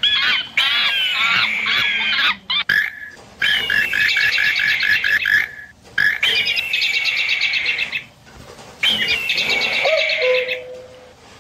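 A mix of bird calls and chirps in several bursts with short gaps between them, one burst a fast run of repeated notes, about five a second.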